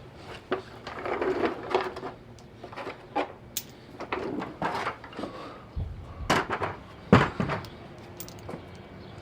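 Hand tools clinking and knocking on a pickup truck's bumper and its bolts: irregular clicks and thumps, with one sharper knock about seven seconds in.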